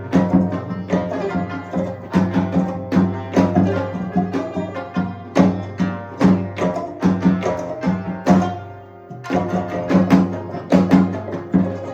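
Percussion ensemble music: a fast run of drum strokes over steady low pitched tones. The playing thins out briefly about eight and a half seconds in, then comes back in full.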